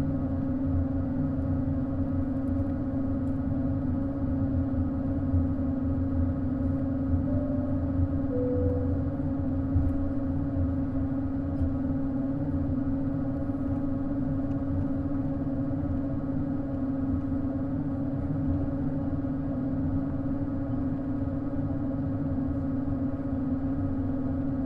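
Airbus A220 cabin during taxi: a steady droning tone from the Pratt & Whitney PW1500G geared turbofan engines over low rumble, rising in pitch right at the end.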